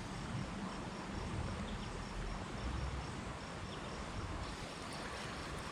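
Faint insect chirping, a high note repeated evenly about five times a second, stopping about four and a half seconds in, over steady outdoor creek-side noise.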